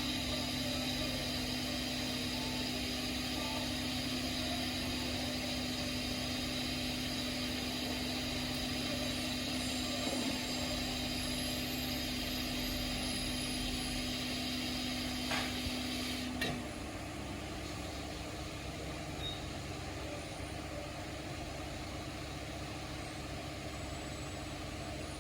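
Steady hum of a small motor with a thin high whine, which cuts off after a click about two-thirds of the way through. A quieter low hum carries on after it.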